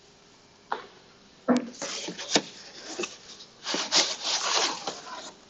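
Snack packaging being handled: a couple of short knocks, then irregular crinkling and rustling of wrappers and boxes for a few seconds.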